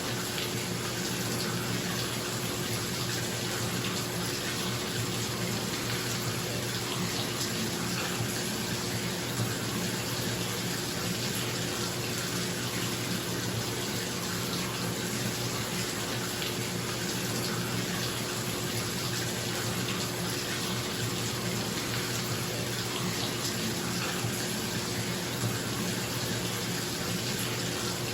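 Bathtub tap running steadily into a filling tub, with a bathroom exhaust fan humming underneath.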